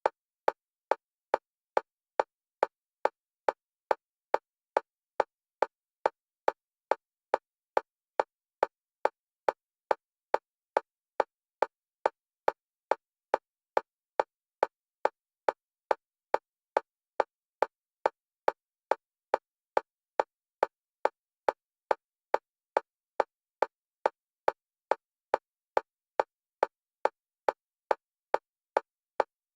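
Fast, evenly spaced metronome clicks, about two and a half per second, all at one pitch and one level, alternating between left and right for EMDR bilateral stimulation.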